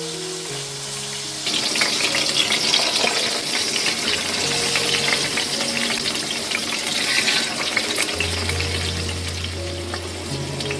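Food frying in a pan: a loud crackling sizzle that starts about a second and a half in, over soft background music.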